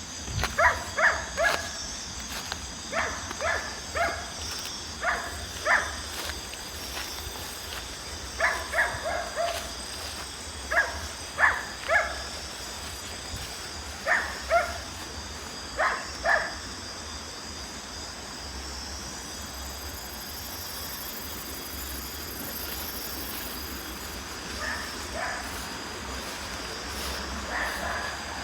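A dog barking in short runs of two or three barks, repeated over about sixteen seconds, then twice more, fainter, near the end. Steady high insect trilling runs underneath.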